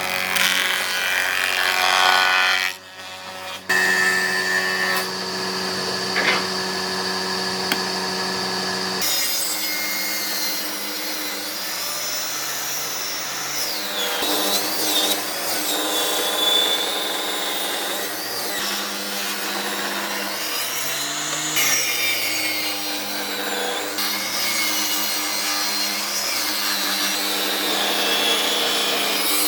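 Power tools working wood: a motor running steadily with cutting and rubbing noise from the wood. The sound changes abruptly about three seconds in and again about nine seconds in.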